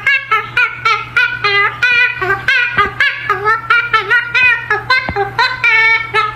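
A parrot giving a quick, unbroken run of high, laugh-like calls, about four or five a second, over a steady low hum.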